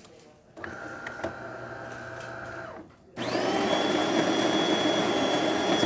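DeLonghi Magnifica's built-in burr grinder starting about three seconds in and running steadily, grinding the dose for a double shot. Before it, a quieter steady motor hum runs for about two seconds and stops.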